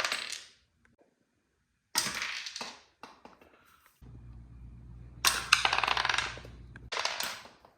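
Hard clattering and rattling of small objects in four separate bursts that each start abruptly. A low steady hum joins about four seconds in and stops a little before the last burst.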